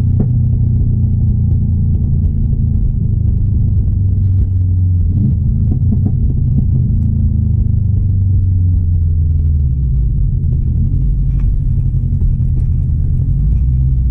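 2016 Subaru WRX STI's turbocharged 2.5-litre flat-four engine running under way at fairly low, steady revs, a deep drone. The pitch eases down about two-thirds of the way through.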